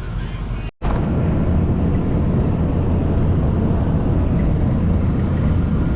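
Steady low rumble of a road vehicle driving, starting abruptly at a cut about a second in.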